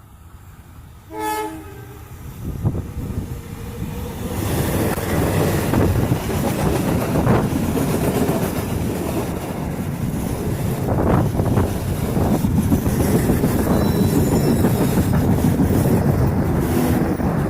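A diesel locomotive gives one short horn blast about a second in. Then its train approaches and passes close by: a loud, steady rumble of locomotive and carriages with wheels clacking over the rail joints.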